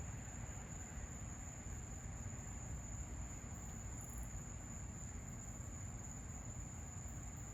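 Steady low rumbling background noise with a constant high-pitched tone above it; no thunderclap or other distinct event.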